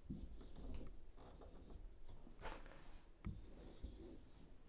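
Faint scratching and rubbing, with a soft knock about three seconds in.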